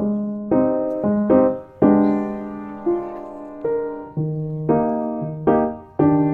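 Background piano music: a gentle keyboard melody of chords and single notes struck about every half second, each note fading after it is struck.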